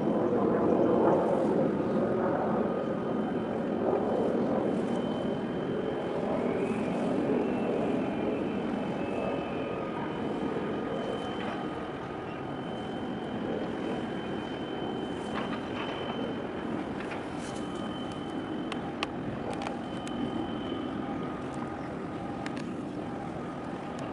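Steady engine rumble that slowly eases off, with faint thin high tones coming and going above it. It cuts off suddenly at the end.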